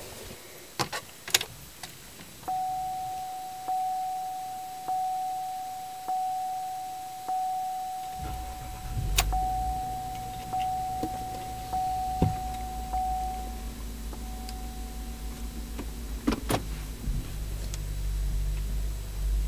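Cadillac CTS cold start heard from the driver's seat: a dashboard warning chime sounds one steady note about once a second, the engine starts about 8 seconds in and settles into an idle under the chime, and the chime stops a few seconds later. There are a couple of clicks near the start and a few more over the idle.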